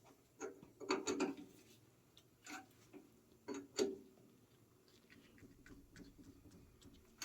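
Four-jaw lathe chuck being adjusted with its chuck key, loosening a jaw to re-centre a square brass bar: a handful of short metal knocks and scrapes in the first four seconds, then faint light ticking.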